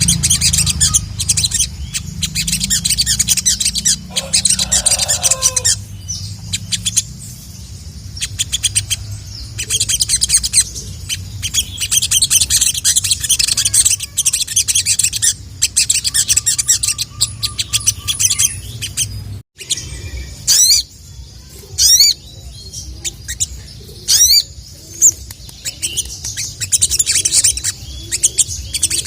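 Male sogok ontong (ruby-cheeked sunbird) singing a fast, high-pitched run of chirps and twitters. A few sharp sweeping notes stand out in the last third. A low hum underlies the song until a brief break about two-thirds of the way in.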